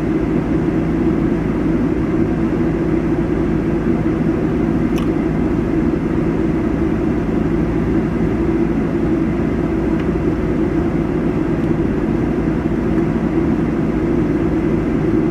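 A vehicle engine running steadily, a constant low hum that holds its level without revving.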